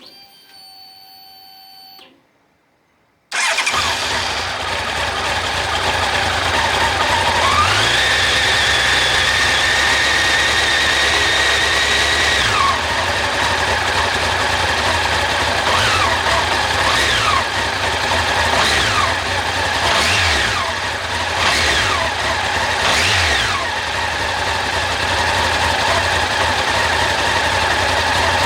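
A short electronic beep, then a Honda CB1100SF X-11's inline-four engine comes in abruptly about three seconds in and runs. The revs are raised and held for several seconds, then blipped up and down about six times.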